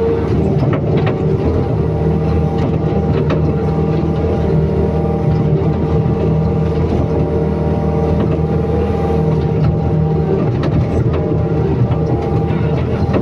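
Excavator's diesel engine running steadily under throttle, with a few light clicks and knocks.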